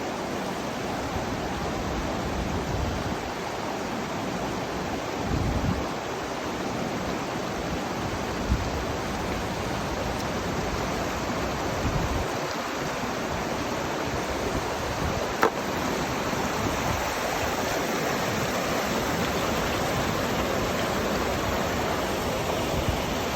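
Steady rushing noise of running water, like a mountain stream or small waterfall, with a few brief low bumps and one sharp click about fifteen seconds in.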